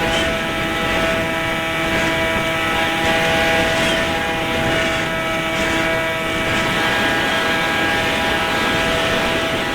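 Bixler 3 RC glider's brushless electric motor and propeller running at a steady pitch, with a steady whine over wind noise.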